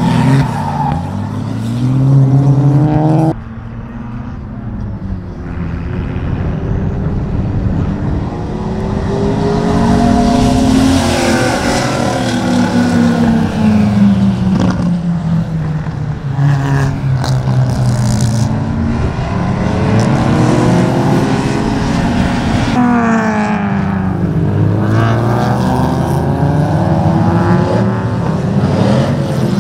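Track cars' engines revving hard and easing off as they are driven sideways through corners, among them a Volvo 240 estate. The engine pitch climbs and falls again and again, and the sound switches abruptly to another car about three seconds in and again near the end.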